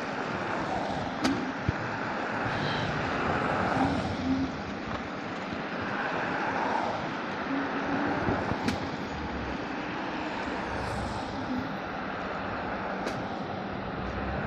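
Steady street and traffic noise heard from a moving electric scooter, with a few sharp clicks scattered through.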